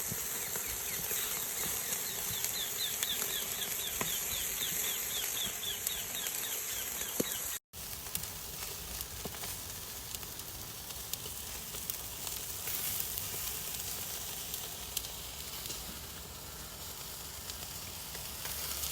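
Food sizzling and crackling on a barbecue grill, steady throughout, with a sudden brief dropout about eight seconds in.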